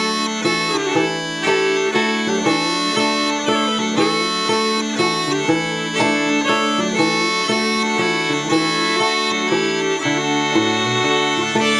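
Scottish smallpipes playing a slow waltz melody over a steady drone, the tune a traditional Scottish pibroch set as an Appalachian-style waltz.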